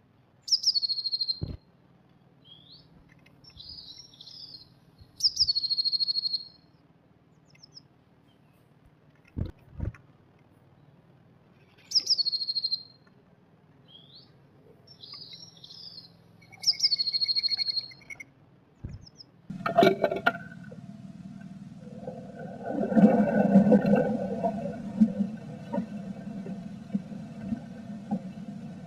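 Small songbird, plausibly a blue tit, repeating a high phrase about every five seconds: a note slides down into a short trill, with softer calls in between. About two thirds of the way in, a louder, lower rumbling noise with a steady hum takes over.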